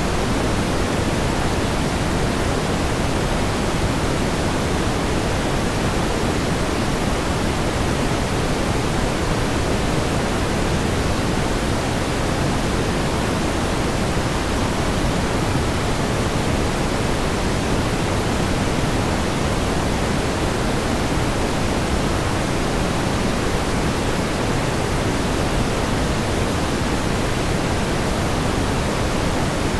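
Steady pink noise: an even, unchanging hiss weighted toward the low end, with no events or variation.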